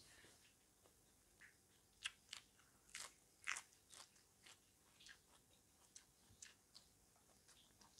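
A person bites and chews crisp lettuce close to the microphone, making quiet, irregular crunches, the loudest cluster about two to four seconds in.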